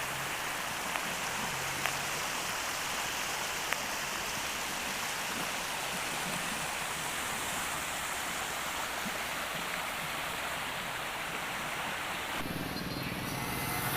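A stream running full with overflow water from a lake, a steady even rush of flowing water. Near the end the water sound gives way to a lower, steadier hum.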